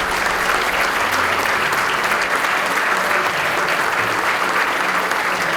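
Audience applauding steadily, a dense even clapping from a large crowd, with faint background music beneath.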